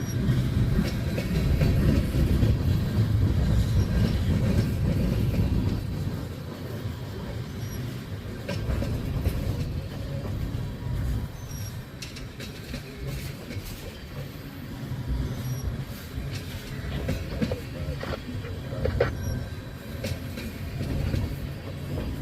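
Freight train cars rolling slowly past: a heavy low rumble of wheels on rail, loudest for the first several seconds, with scattered clicks from wheels over rail joints.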